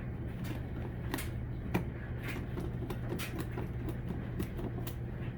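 Cardboard box being cut open and handled: irregular scraping, ticking and tearing clicks from a blade through packing tape and cardboard. A steady low hum lies underneath.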